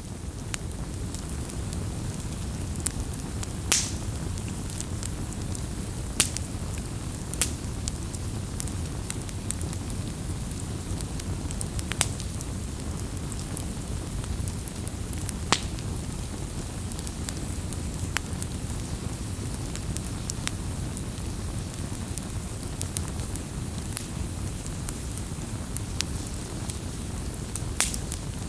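Wood campfire burning: a steady low rush of flame with scattered sharp crackles and pops from the burning wood, a few louder snaps every several seconds.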